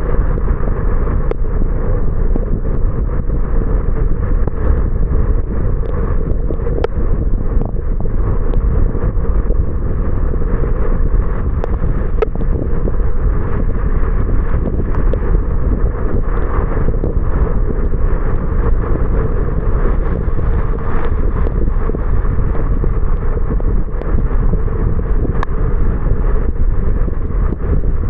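Steady low rumble of a car driving, road and engine noise with wind buffeting the action camera's microphone.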